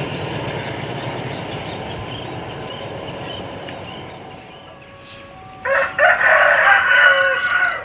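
A passing train's rumble fades away. Then, about six seconds in, a rooster crows once for about two seconds, the loudest sound here.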